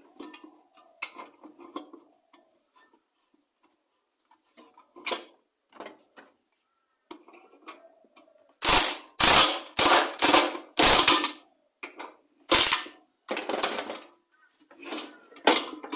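Air impact wrench rattling in a series of short bursts, tightening the blade bolts of a lawn mower, after a few seconds of quieter tool-handling knocks. The bursts come in two groups, about five in the first and four or five in the second.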